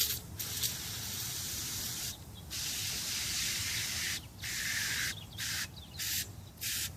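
Aerosol battery cleaner hissing as it is sprayed onto a corroded car battery terminal and cable connector to dissolve the corrosion: two long sprays, then several short bursts.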